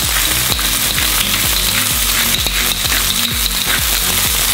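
Chicken thigh, drumstick and quartered mushrooms sizzling steadily as they fry in olive oil and butter.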